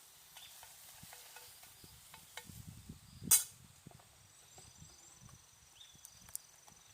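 Food frying in a frying pan over a campfire: a faint sizzle with scattered small taps and scrapes, and one sharp, loud metallic clank a little over three seconds in.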